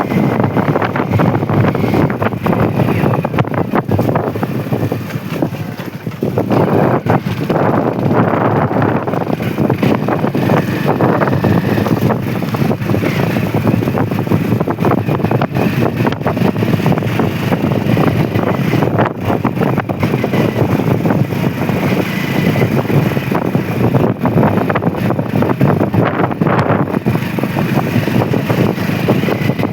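Motorcycle riding noise: loud, steady wind rushing over the microphone, with engine and road noise underneath. It dips briefly a few seconds in.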